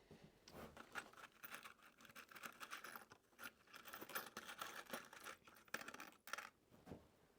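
Faint rummaging through loose hardware for more screws: scattered small clicks and rustling.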